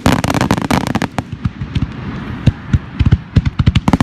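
Aerial fireworks shells bursting overhead: a dense run of crackling for about the first second, a brief lull, then a quick series of separate sharp booms.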